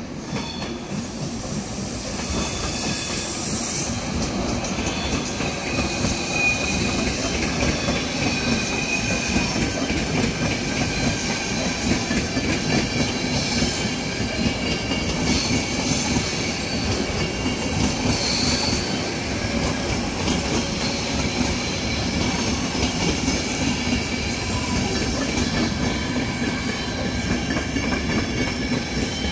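SBB double-deck electric trains rolling past over the points and curved tracks of a rail yard: a steady rumble of wheels on rail, with high wheel squeal coming and going.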